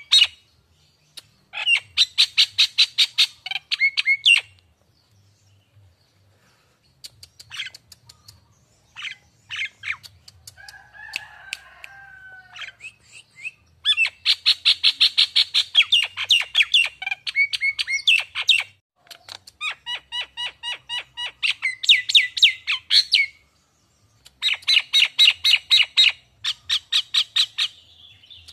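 Nias hill myna calling in bouts of fast, repeated sharp notes, each bout lasting a few seconds with short pauses between. About ten seconds in there is a lower, warbling call.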